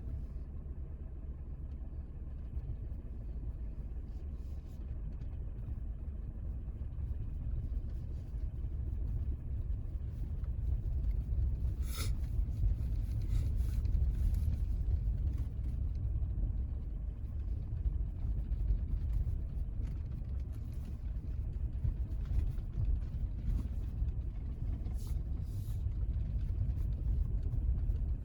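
A car driving on an unpaved road: a steady low rumble that swells midway, with a few short knocks, the sharpest about twelve seconds in.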